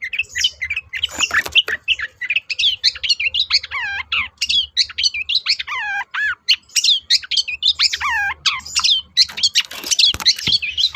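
Long-tailed shrike (cendet) in full song: a rapid, busy stream of sharp chattering notes mixed with repeated downward-sliding whistles, of the kind used as a lure recording to provoke other shrikes into singing.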